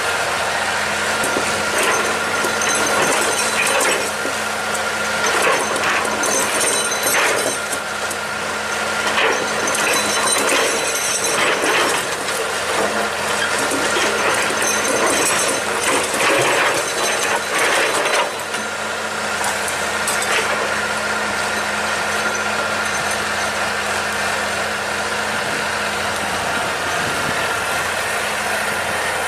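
Excavator's diesel engine running steadily, with irregular clanking and scraping from the bucket and arm working for the first two-thirds, then just the engine running steadily after about 18 seconds.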